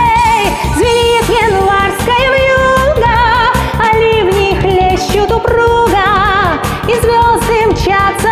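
A woman singing long held notes with vibrato over a pop backing track with a steady beat.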